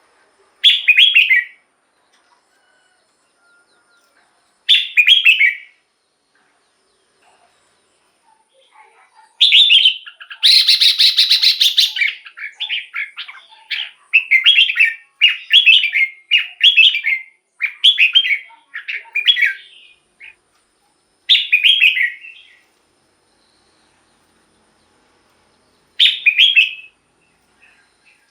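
Red-whiskered bulbul singing short, clear whistled phrases with pauses between them, and a longer run of rapid phrases in the middle.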